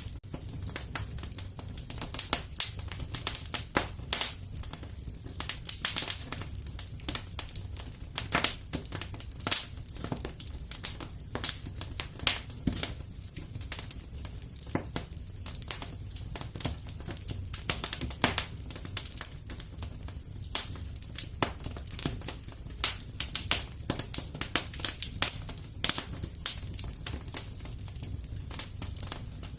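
Fireplace with a wood fire crackling: irregular sharp pops and snaps, several a second, over a steady low rumble of the flames.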